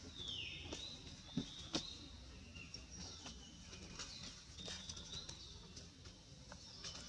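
Wild birds calling: a high whistled call that slides down in pitch just after the start, then short high notes through the rest, with two sharp ticks about a second and a half in.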